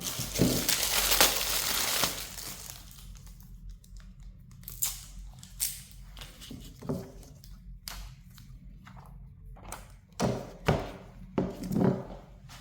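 Handling noises: about two seconds of loud crinkling plastic, then a series of light knocks and taps spread through the rest.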